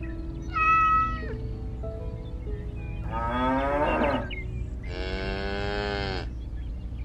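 A cat meows once, then a cow moos twice, the second moo long and steady, falling in pitch as it ends, over soft background music.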